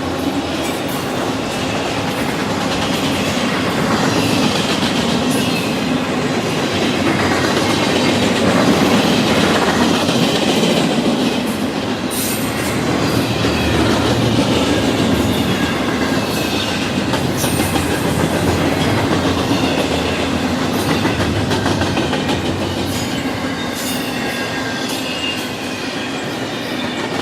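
Freight cars of a Canadian Pacific train, autoracks then intermodal container cars, rolling past close by: a steady rumble of steel wheels on rail, with clicking over the rail joints and faint high wheel squeals at times.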